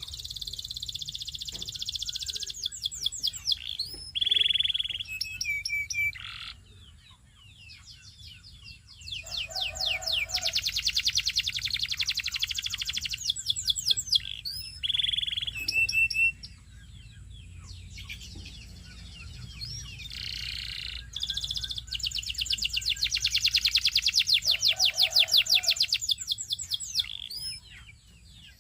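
Canary singing in three long bouts of fast, evenly repeated high trills mixed with short whistled notes, with brief quieter pauses between bouts.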